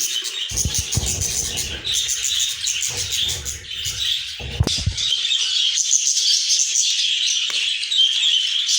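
Budgerigars chirping and chattering continuously, many birds at once. From about half a second to five seconds in there is a low rustling rumble, with a sharp knock near the end of it.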